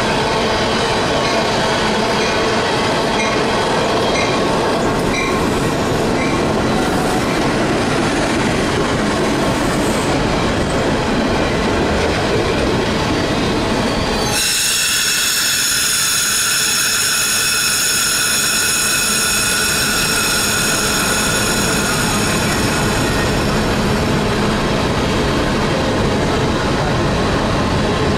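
Freight train rolling past with a steady rumble of wheels on rail and faint squeaks. About halfway in, the sound changes to a bilevel commuter train drawing to a stop: its wheels or brakes squeal in a chord of several high tones for about nine seconds, and the squeal then fades over a low rumble.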